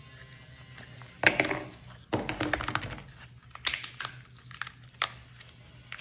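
Irregular crackling and sharp clicks from objects being handled, starting about a second in, with the loudest burst near the start and scattered clicks after it.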